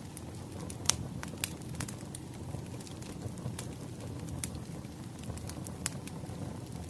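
Wood fire burning, with a steady low rumble of flames and irregular sharp crackles and pops of burning firewood, the loudest pop about a second in.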